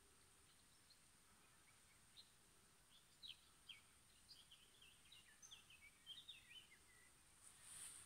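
Faint birdsong: a quick run of short, high chirps starting about three seconds in and trailing off near the end, over a very quiet background.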